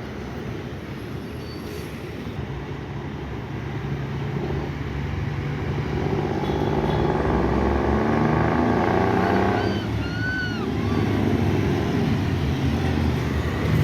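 Heavy truck's diesel engine running, growing louder as it approaches and passes. A brief high squeal comes about ten seconds in.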